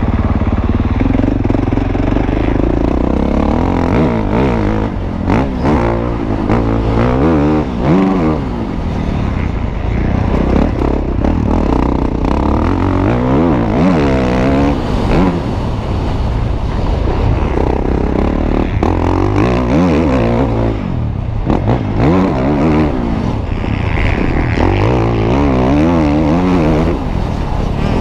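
Motocross bike engines revving up and down over and over, the pitch climbing and dropping every few seconds as they are ridden hard, over a steady low rumble.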